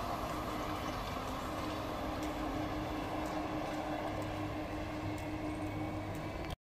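Rumble of a train running away down the line, a steady noise with a faint constant hum in it.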